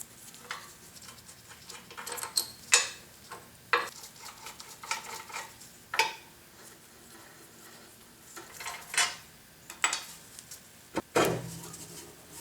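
Scattered metal clinks and knocks of tools and machine parts being handled while a woodworking planer is taken apart, with a louder knock near the end.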